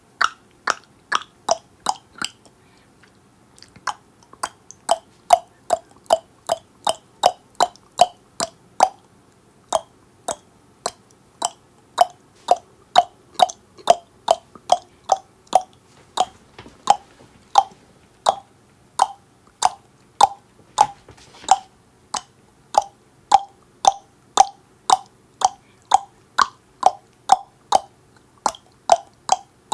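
Tongue clicking: sharp mouth clicks repeated about twice a second, with a short pause about two and a half seconds in before they resume.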